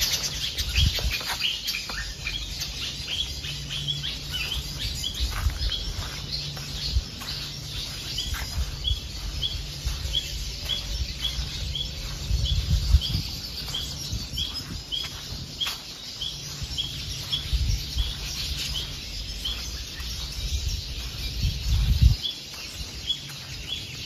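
A bird repeating one short, high chirp about twice a second, over low rumbling and scuffing noise.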